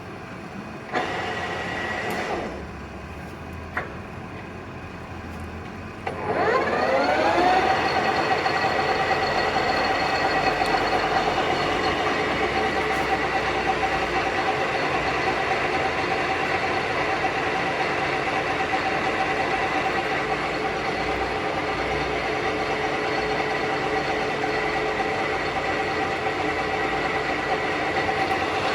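Summit gap bed engine lathe starting up: the whine of its 10 hp main motor and geared headstock rises over about a second and a half, then runs steadily. Before that there is a short mechanical noise and a click.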